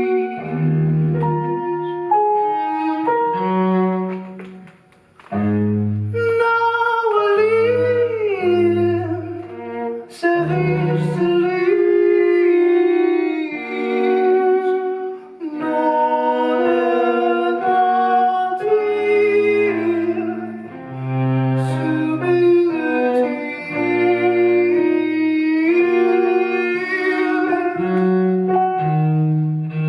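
Live chamber music from a small acoustic ensemble: bowed strings play a low bass line of held notes under a higher melody, with a short drop in level about five seconds in.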